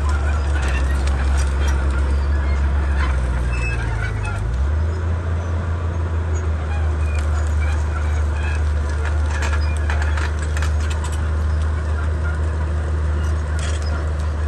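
Komatsu D31P bulldozer's diesel engine running steadily under work, its note shifting about four seconds in, with scattered squeaks and clicks from the machine's tracks and the work above the engine hum.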